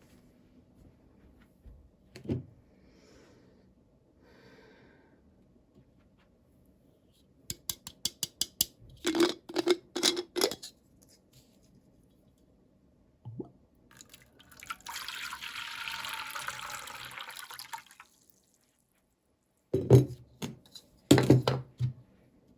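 Small plastic toy pieces and packaging being handled: a quick run of clicks and taps, a few seconds of steady hiss, then a few louder knocks near the end.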